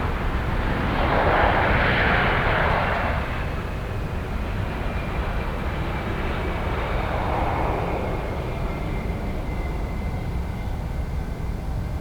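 Jet airliner engine noise: a steady rumble that swells about two seconds in and again around seven to eight seconds in, with a faint high whine in the later part.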